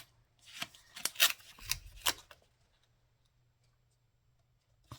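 Paper strip being handled and reworked on a card: a handful of sharp, crisp paper sounds in the first two seconds or so.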